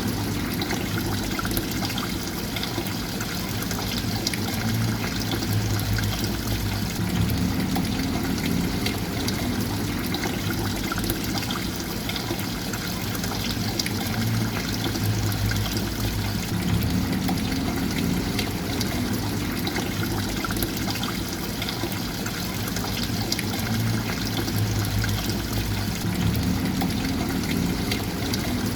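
Water trickling and pouring steadily, with a low hum underneath that shifts in a pattern repeating about every ten seconds.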